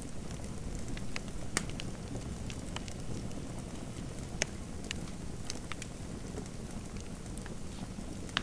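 Fireplace fire burning: a steady low rush with scattered sharp crackles and pops, the two loudest pops about a second and a half in and about four and a half seconds in.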